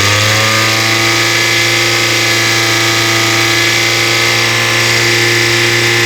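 2016 Toyota Yaris engine running loud and even at a steady raised speed, with a constant whining tone over it.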